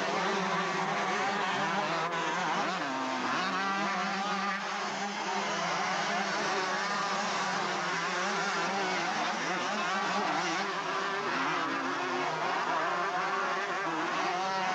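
Several motocross bikes racing, their engines revving up and down continuously as they ride the track.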